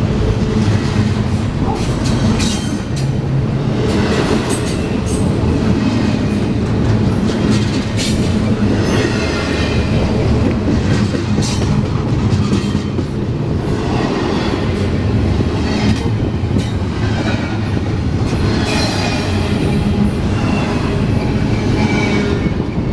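Train cars rolling past close by: a steady heavy rumble with wheels squealing again and again and clacking over rail joints.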